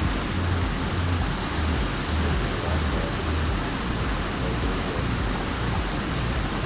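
Steady, even rush of water spilling through a river dam, with some low rumble underneath.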